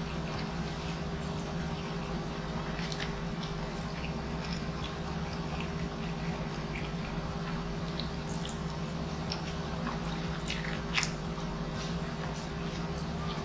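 Close-up mouth sounds of a man chewing and biting into soft cured pork and rice, eaten by hand: scattered wet smacks and clicks, with one sharper click near the end. A steady low hum sits underneath.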